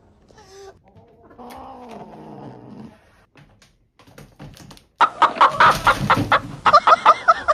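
A quieter falling pitched call, then from about five seconds in a loud run of rapid, repeated animal calls, several a second.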